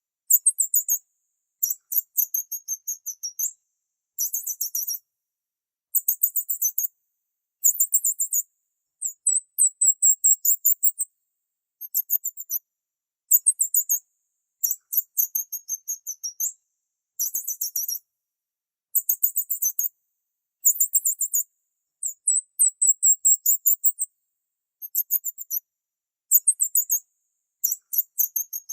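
Small bird chirping in very high-pitched, rapid trills. Each burst lasts about a second and they repeat every second or two, with silence between.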